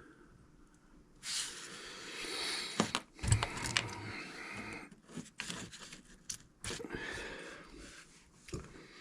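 Rustling and crinkling from handling small items, with scattered clicks and one low knock a little after three seconds in.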